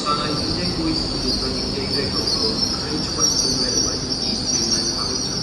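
A train pulling into the station, its wheels giving a steady, high-pitched squeal over a low rumble.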